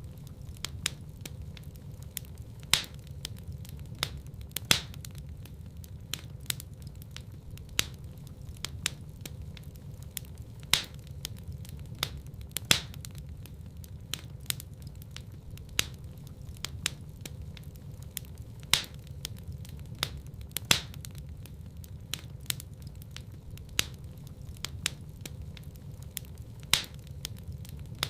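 Fireplace fire crackling: a steady low rumble of burning with many irregular sharp crackles and a louder pop every couple of seconds.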